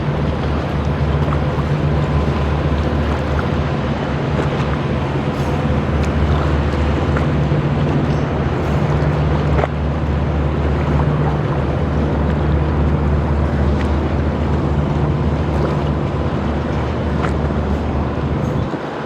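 A boat engine runs with a steady low hum over a constant wash of water and wind noise. The engine hum drops away near the end.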